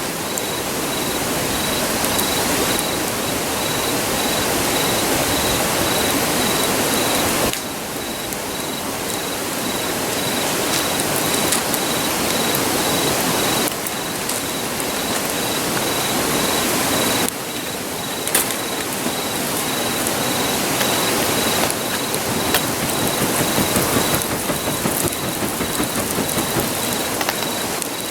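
Steady rushing of a river, with a few sharp crackles from a wood campfire and an insect chirping in an even, pulsed high tone.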